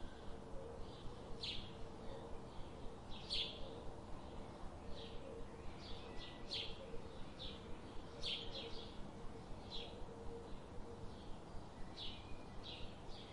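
Birds chirping in short, scattered calls over a faint steady hum.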